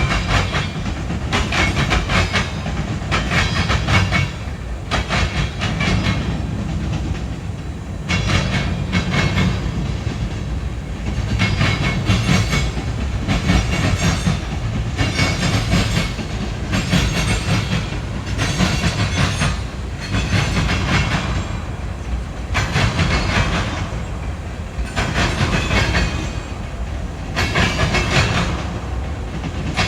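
Freight train cars rolling past close by: a steady low rumble, with the wheels clacking over rail joints every second or two.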